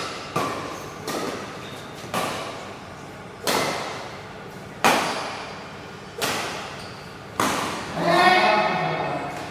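Badminton rally: six sharp racket hits on the shuttlecock about 1.3 seconds apart, each echoing in a large hall. Near the end a person shouts.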